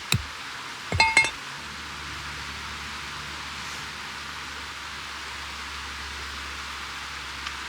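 A few ringing metallic clinks about a second in, then a steady hiss with a low hum.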